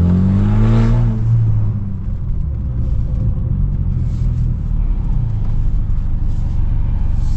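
Straight-piped, tuned BMW F30 328i turbocharged four-cylinder exhaust: the engine note rises briefly in the first second, then settles into a steady low rumble.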